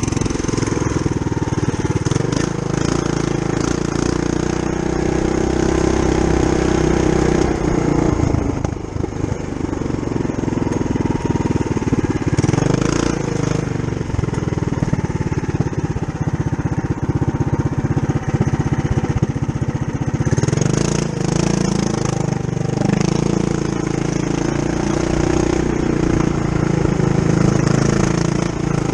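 Mini bike's Tillotson 212cc single-cylinder engine, governor gear removed, running under throttle. The engine note drops about a quarter of the way in, stays lower for roughly twelve seconds, then picks up again.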